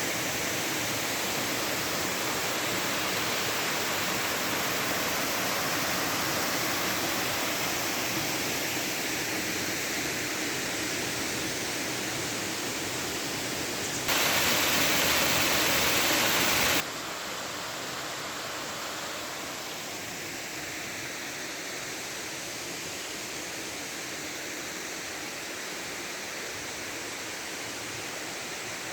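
Waterfall water rushing in a steady, even roar. It jumps abruptly louder for about three seconds midway, then drops back a little quieter than before.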